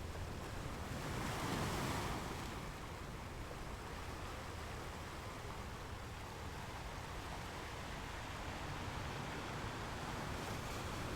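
Ocean surf: a wave swells and washes louder about a second or two in, then the waves settle into a steady rushing wash.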